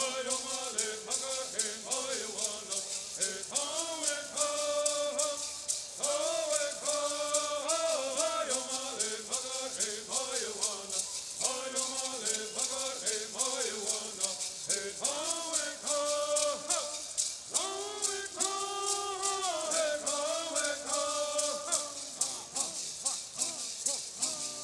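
Bird singing: voices singing a Southern California bird song in unison, over gourd rattles shaken in a steady, quick beat.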